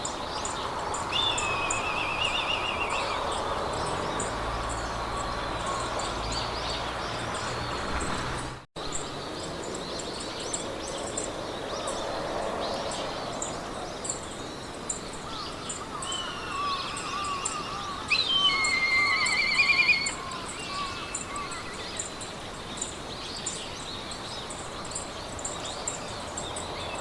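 Meadow ambience: songbirds singing in warbling trills and chirps over a steady wind hiss, the loudest trill about two-thirds of the way through. A regular high-pitched ticking runs throughout, and the sound drops out briefly about nine seconds in.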